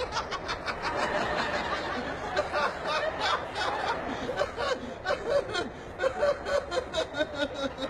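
Studio audience laughing and chuckling.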